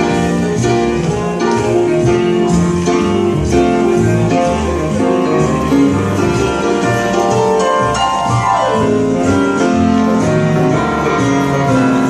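Recorded music with instruments playing steadily, reproduced through vintage Western Electric cinema horn loudspeakers in a large demo room, picked up by a phone's microphone.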